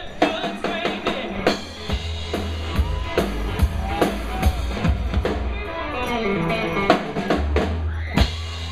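Live rock band playing, with a drum kit's kick drum and sharp snare and rim hits over electric guitar.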